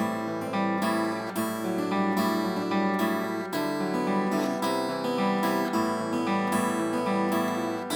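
Vintage Japanese acoustic guitar played with strummed chords, the low notes changing to a new chord about three and a half seconds in.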